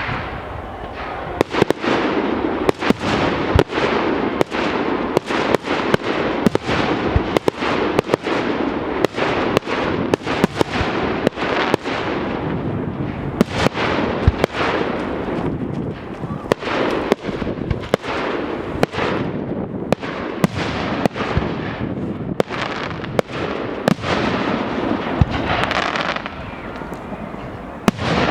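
Fireworks display going off in a continuous barrage: many sharp bangs, several a second, over a dense rushing noise, easing briefly about halfway through before picking up again.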